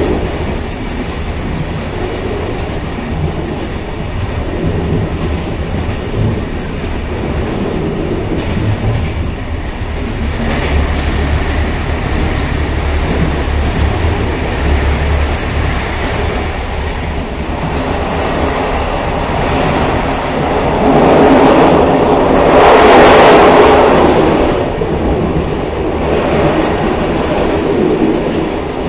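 Railcar running on the rails: a continuous low rumble with wheel-on-rail clatter, swelling louder for a few seconds about three quarters of the way through.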